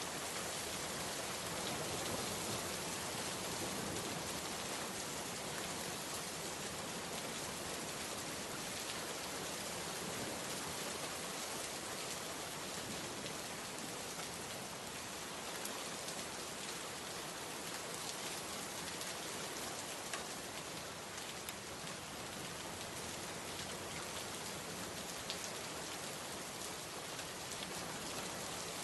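Steady heavy rain falling on surfaces, a dense even hiss with the odd louder drop pattering through it.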